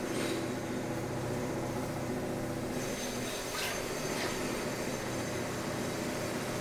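Construction machinery running with a steady engine drone, with two brief sharp noises a little past the middle.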